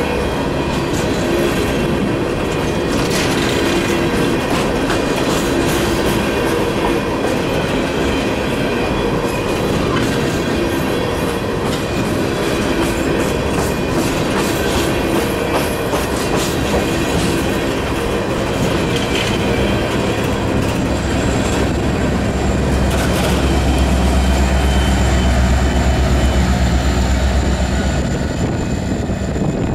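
Empty steel coal hopper cars of a Union Pacific freight train roll steadily past: wheels clickety-clack over the rail joints and the cars rattle, with a little wheel squeal. In the last several seconds the diesel locomotive at the rear of the train goes by, adding a deep engine rumble that is the loudest part.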